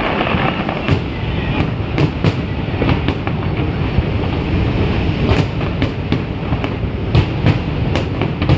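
Fireworks barrage: many aerial shells bursting in quick succession, blending into a continuous rolling rumble with sharp cracks scattered throughout.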